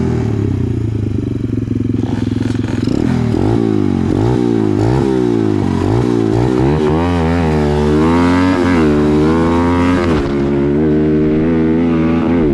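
Small dirt bike engine revving hard, its pitch climbing and dropping sharply about once a second, then wavering up and down. A steadier low engine note runs underneath.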